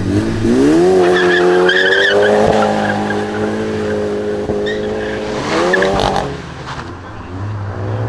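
A modified car's engine revved hard, climbing quickly at the start and holding at high revs for about four seconds, then rising once more just before six seconds and dropping off.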